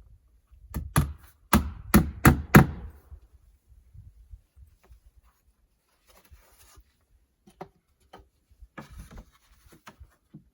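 A hammer striking wood: six quick, sharp blows in about two seconds, starting about a second in, then faint scraping and handling noises.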